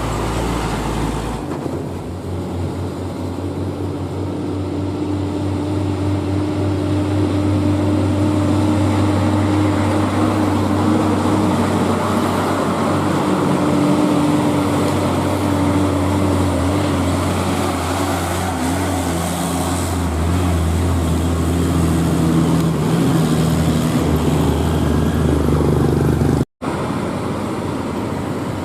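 Heavy diesel truck engine running steadily under load on a steep climb, with a thin whine above the engine note. The sound cuts out briefly near the end, then vehicle noise resumes.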